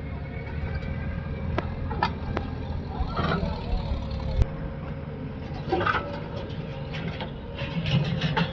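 Heavy diesel machinery engine running steadily with a low rumble, with a few sharp knocks and some short bits of people's voices.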